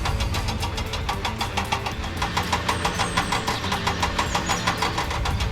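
Vehicle engine running with a steady rapid chugging, about six beats a second, over a low hum.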